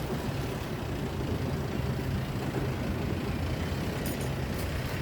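Steady outdoor noise: a flickering low rumble with an even hiss over it, and a few faint clicks about four seconds in.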